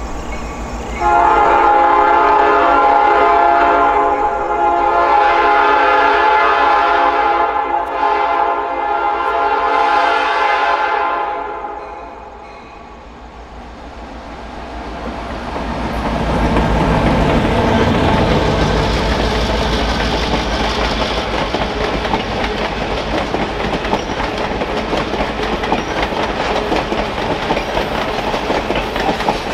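A locomotive's horn sounds in a series of long blasts for about ten seconds as the train approaches. The locomotive then passes with a growing engine rumble, and a string of passenger coaches rolls by with wheels clicking over the rail joints.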